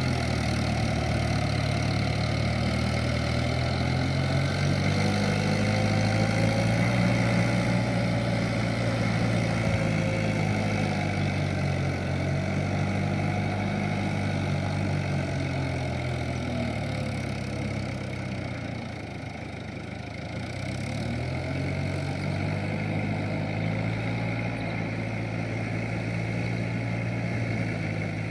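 Kubota M7040SU tractor's diesel engine running steadily. Its note sags briefly about two-thirds of the way through, then picks up again.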